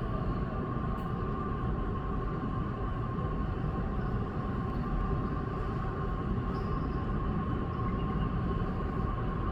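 Steady cabin noise inside an Airbus A330-300 airliner: a constant low rumble with a steady whine, with no distinct events.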